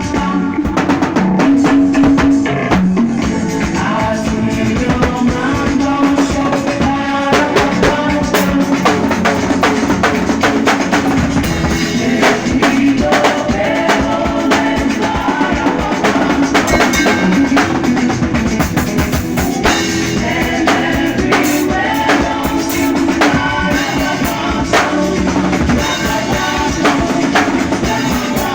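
Drum kit playing a tight groove of kick, snare and rimshots along with band music that includes bass and singing. The sound is poorly recorded.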